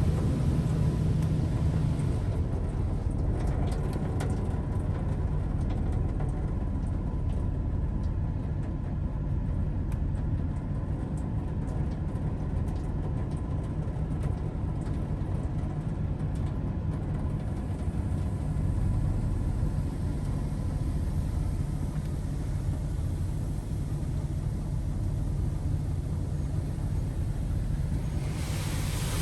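Washworld High Velocity touchless car wash machine running: a steady low rumble with a faint constant hum. A spray hiss comes back near the end.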